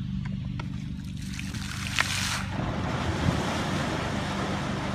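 Steady low hum of a motor with a rush of wind and water noise over the microphone; the rushing grows louder about two and a half seconds in, and there is a sharp click near two seconds.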